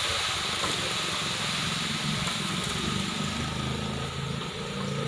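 An engine running steadily, with an even hiss over it.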